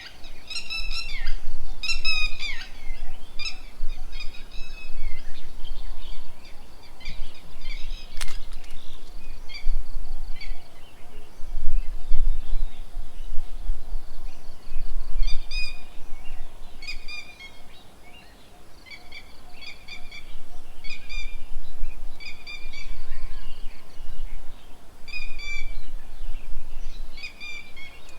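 Birds around a bird table giving short, repeated chirping calls, in clusters near the start and again through the second half, over a low uneven rumble. A single sharp click about eight seconds in.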